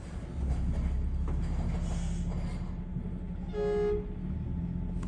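Front-load garbage truck's diesel engine running, its low rumble rising in level about half a second in. About three and a half seconds in, one short horn toot sounds over it.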